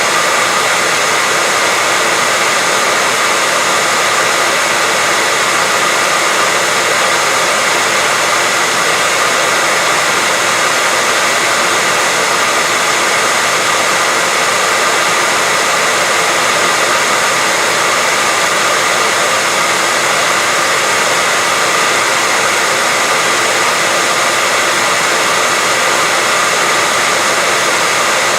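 Continuous white noise: an even, unchanging hiss with a faint steady tone inside it.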